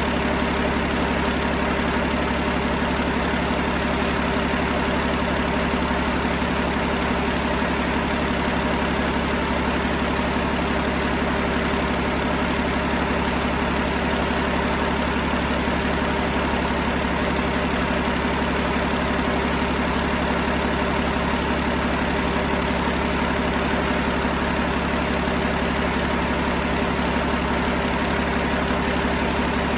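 2017 Cummins ISL 8.9-litre inline-six diesel engine idling steadily at a constant speed.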